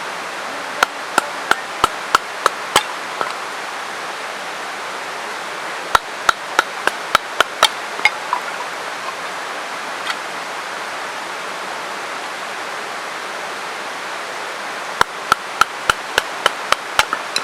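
A Helle Utvær knife being batoned through small kindling: a wooden baton knocking sharply on the blade's spine in three quick runs of strikes, about three a second. A steady rush of a mountain stream runs beneath.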